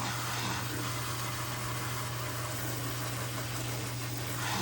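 Kitchen tap running steadily into the sink, an even rush of water over a constant low hum.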